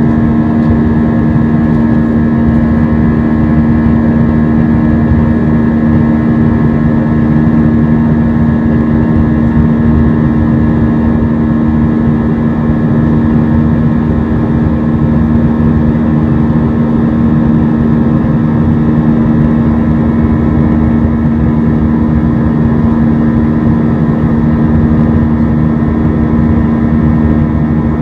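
Steady cabin noise of an Airbus A320-232 in flight: the drone of its IAE V2500 turbofan engines at a constant pitch over the rush of airflow, heard from a window seat.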